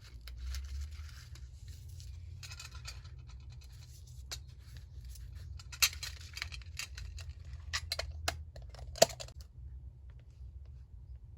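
Paper being handled and rubbed against paper on a desk, then a run of scattered sharp taps and clicks, the loudest about nine seconds in.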